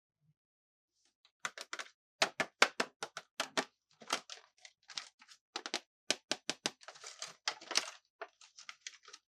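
Quick, irregular run of sharp clicks and taps from hard plastic toy pieces being handled close up. It starts about a second and a half in, with a brief rustle near the end.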